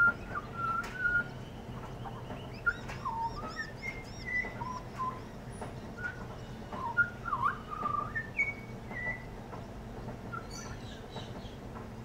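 Pied butcherbird singing: a run of clear whistled notes, some held level and some sliding up or down, in short phrases that stop about nine seconds in. A steady low washing-machine hum runs underneath.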